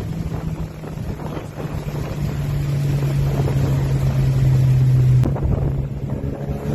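Tuned Ford Focus RS's turbocharged 2.3-litre four-cylinder engine and exhaust heard from inside the car, the note building steadily for about five seconds. Then comes a sharp click and the engine note drops.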